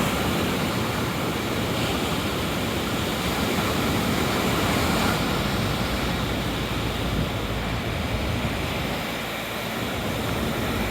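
Steady roar of rough sea waves breaking at high tide, mixed with road traffic noise; the waves are loud rather than the wind.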